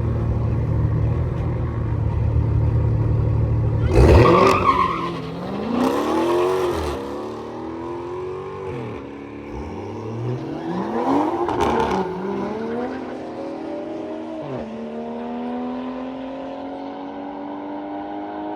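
Drag race launch of a Dodge Scat Pack and a BMW 340i: a low rumble at the line, then a loud launch about four seconds in. The engine pitch climbs and drops at each upshift, then climbs steadily as the cars pull away down the strip.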